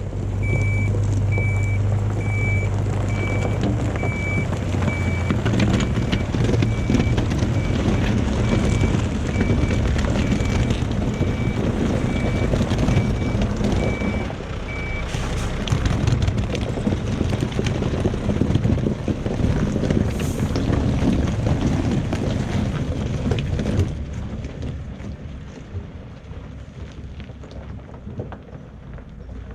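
Reversing alarm beeping at an even pace, a little over one beep a second, which stops about halfway through, over the loud, rumbling running of a heavy diesel machine. The machine noise drops off sharply near the end.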